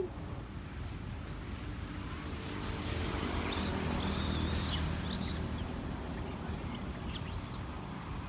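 Long-tailed macaques giving short, high-pitched squeaks in two brief flurries, over a low hum that swells and fades in the middle.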